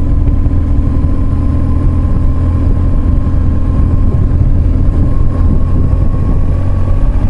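Motorcycle engine running steadily while riding, with a continuous noise haze over it.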